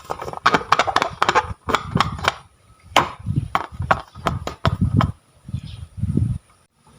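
Hands working slime: irregular wet crackling and popping clicks as it is squeezed and stretched, with soft low squelches under them.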